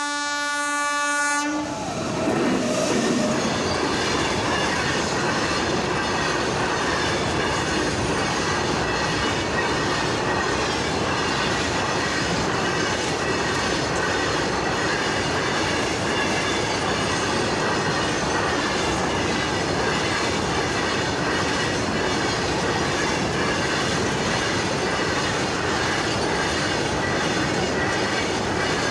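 A train horn sounds one steady note for about the first second and a half. It cuts off, and the steady noise of the train running on its rails follows.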